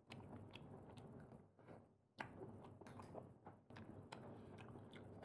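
Faint chewing of food, with irregular small clicks and mouth noises.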